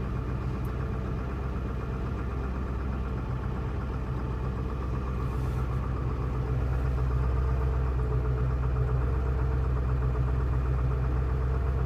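Ford 7.3L Power Stroke V8 turbo-diesel in a 2001 Excursion idling steadily, seconds after a cold start in about 7 °F weather. It gets slightly louder about halfway through.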